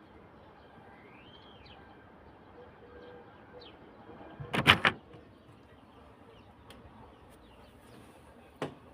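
A faint steady hiss with a few short bird-like chirps, broken a little past halfway by a quick cluster of loud sharp knocks, with one more knock near the end.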